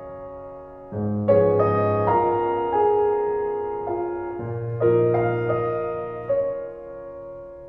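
Soft background piano music, slow chords struck about once a second and left to ring and fade.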